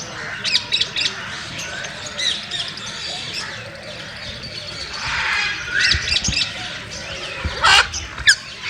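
Parrots squawking: a run of short, harsh calls and chirps, the loudest squawks coming near the end.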